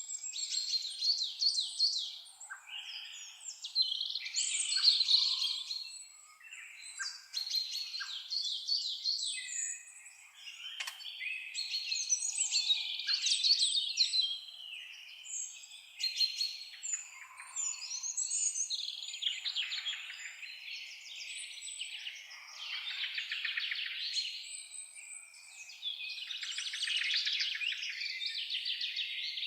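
Several songbirds singing over each other, in phrases of one to three seconds made of rapid trills and chirps that follow one another without a break.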